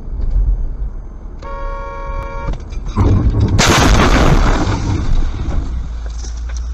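A car horn sounds for about a second, then a sudden loud crash about three seconds in, followed by heavy rumbling noise: a road collision caught on a dashcam.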